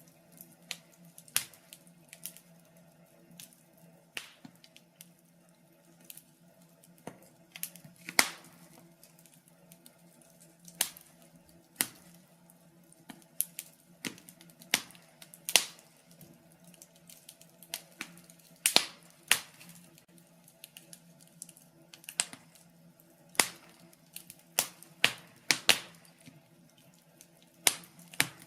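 Wood fire crackling: burning logs giving irregular sharp pops and snaps, some loud, over a faint steady low hum.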